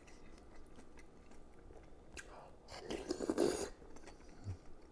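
A person eating close to the microphone: soft chewing and mouth sounds, with a louder noisy burst lasting about a second near the middle.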